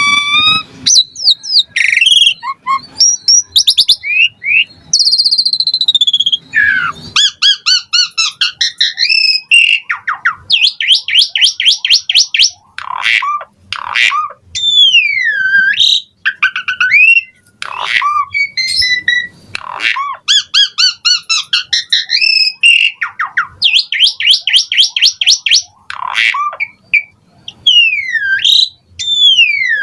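Asian pied starling (jalak suren) singing a loud, varied song: fast runs of repeated notes, slurred whistles sweeping down and back up, and harsh chattering notes.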